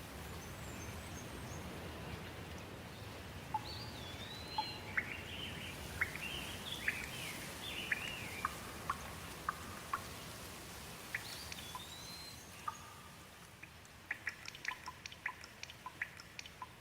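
Steady rain with songbirds calling over it in short, repeated chirping phrases. Near the end the rain eases and a quick run of sharp ticks takes over.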